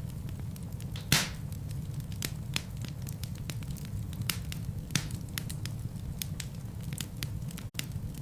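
Wood fire burning in a fireplace: a steady low rumble of flames under constant irregular crackling. There is a loud pop about a second in and another near five seconds. The sound cuts out for an instant near the end.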